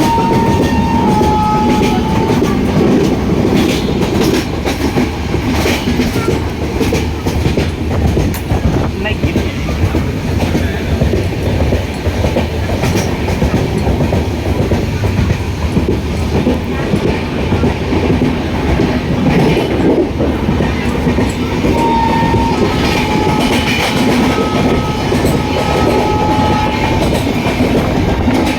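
Train running along the track, heard from on board: a steady loud rumble with the clickety-clack of wheels over the rails. Thin high tones come in briefly at the start and again through the last several seconds.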